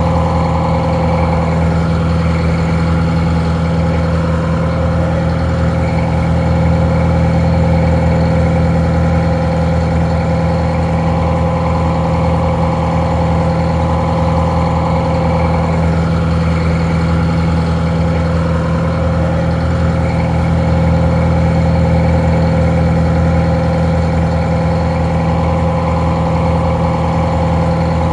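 Detroit Diesel 4-71 four-cylinder two-stroke diesel engine, driving a barge winch, idling steadily with an even, unchanging note.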